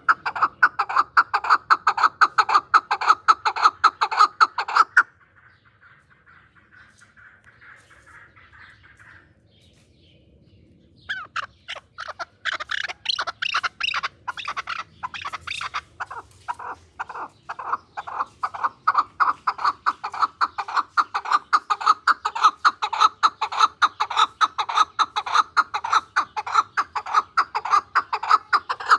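Chukar partridge calling: a fast run of short repeated clucking notes, about four a second. It breaks off about five seconds in and starts again about eleven seconds in, keeping up the same rapid beat.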